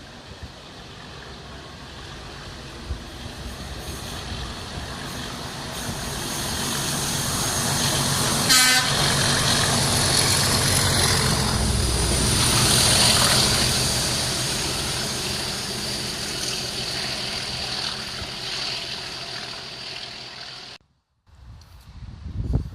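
Class 37 diesel locomotive 37403 with a single saloon coach passing: engine and wheel noise build up over several seconds, with a short horn toot about eight and a half seconds in. It then fades as the train moves away, and cuts off abruptly near the end.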